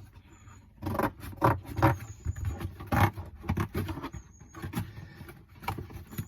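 Irregular knocks, clicks and scraping as an RC car's plastic body shell and a piece of cardboard are handled and fitted together.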